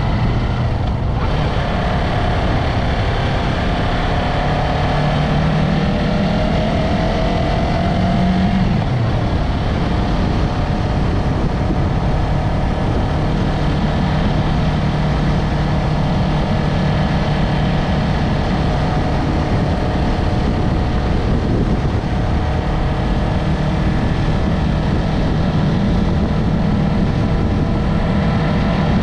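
Yamaha MT-03 parallel-twin engine and exhaust under way on the road, its pitch rising through the first several seconds as it accelerates, dropping about nine seconds in, then running at a steady pitch.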